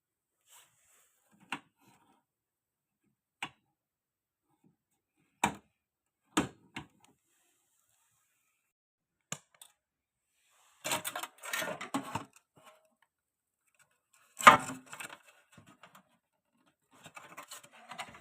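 Hard objects being handled: a handful of separate sharp clicks and knocks, then three short bursts of clattering and rattling, the loudest about two thirds of the way in.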